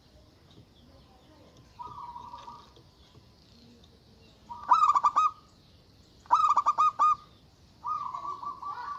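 Zebra dove (perkutut) cooing. A soft coo comes about two seconds in, then two loud phrases of quick rolling notes around the middle, and a longer rolling coo starts near the end. Faint twittering of small birds sits above it.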